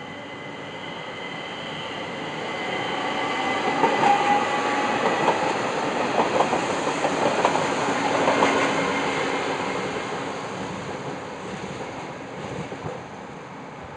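A train passing through a station: its rumble builds, the wheels clatter over the rail joints at the loudest point in the middle, then it fades away.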